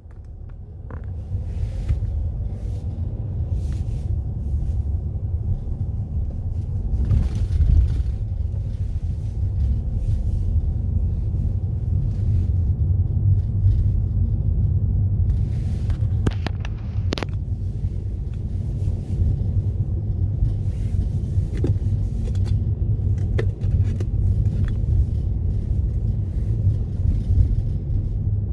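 Car driving along a road: a steady low road and engine rumble, with scattered brief ticks and rattles.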